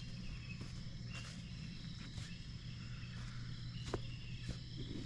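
Crickets chirping steadily in the evening over a low steady hum, with a few faint scattered clicks.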